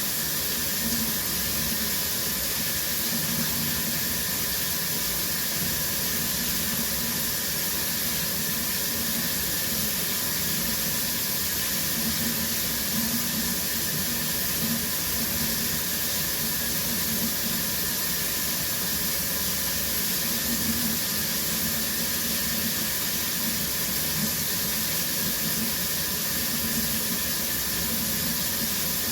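A shower running steadily, its water spray hissing as it falls, with a faint low patter of water hitting the floor or tub.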